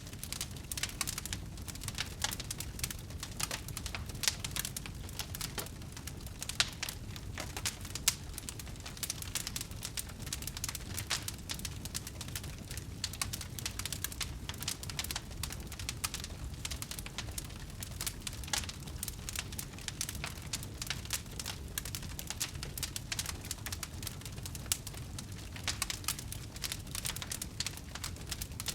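Wood fire crackling: a dense, irregular stream of small pops and snaps over a low rumble, with a few louder pops in the first third.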